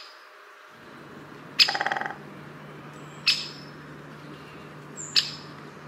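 Bird calls: sharp, high chirps roughly every two seconds, the first followed by a short rapid rattle, over a faint steady low hum.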